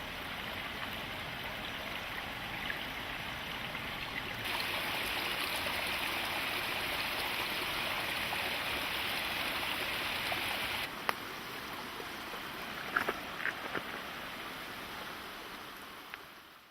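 Mountain stream rushing and gurgling over flat bedrock, a steady wash of water noise. It turns abruptly louder and brighter about four seconds in, drops back about eleven seconds in, and carries a few small ticks and splashes near the end.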